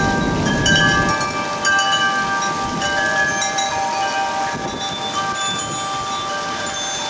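Wind chimes ringing in the storm wind, many overlapping metal tones struck at irregular moments and ringing on, over a steady hiss of rain. A low rumble of thunder dies away in the first second.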